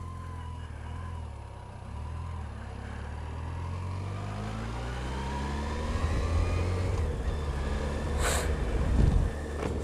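Motorcycle engine running under way, its pitch rising steadily over several seconds as the bike picks up speed. A brief hiss comes near the end.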